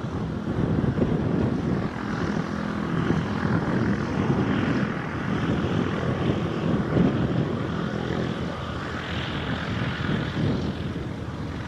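Cessna 152's four-cylinder Lycoming engine and propeller running, a steady noisy drone with a low hum.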